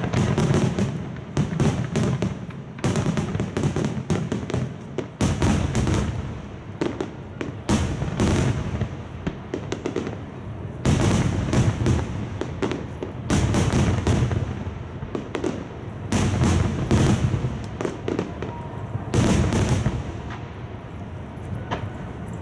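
Aerial firework shells bursting in rapid barrages, heard from about half a kilometre away: sharp cracks and heavy booms in dense clusters, each followed by rumbling echoes, easing off near the end.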